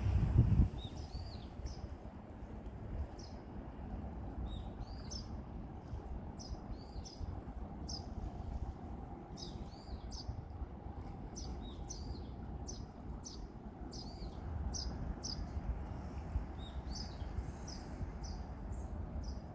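Small birds chirping over and over, short high chirps about two a second, over a steady low outdoor rumble. There is a brief low thump right at the start.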